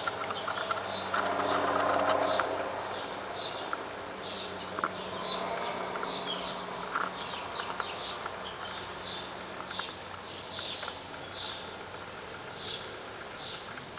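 Birds chirping: short high notes repeated about once or twice a second, mixed with quick falling calls.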